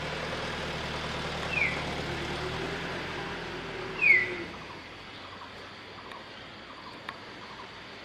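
Two short, falling bird chirps, the second the loudest, over the steady hum of a vehicle engine whose pitch rises and falls and then fades out about halfway through. Fainter bird calls continue after the hum stops.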